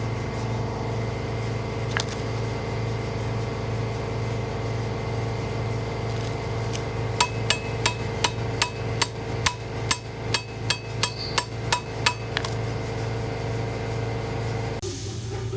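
Hammer blows: a run of about fourteen sharp, ringing strikes, roughly three a second, with one lone knock a few seconds before them, over a steady low machine hum.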